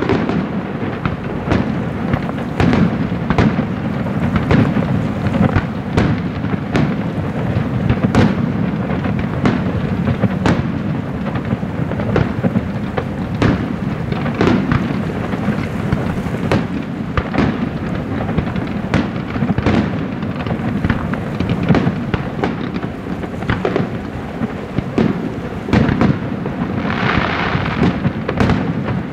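Fireworks display: aerial shells bursting one after another, more than a dozen sharp bangs over a continuous low rumble. A brief rush of higher-pitched noise comes near the end.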